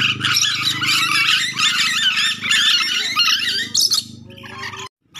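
Nuri dora parrots chattering and squawking in rapid, shrill calls over a low steady hum. The calls thin out after about three seconds, and the sound cuts off abruptly just before the end.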